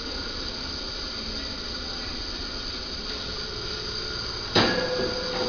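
Steady background hiss and hum of room noise. About four and a half seconds in, a sudden sound sets in and leaves a faint steady tone that is still there at the end.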